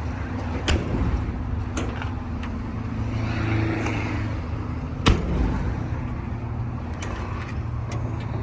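Metal latches and doors of a pickup's utility-body compartments clicking and clunking: three sharp clicks, the loudest about five seconds in, over a steady low vehicle rumble.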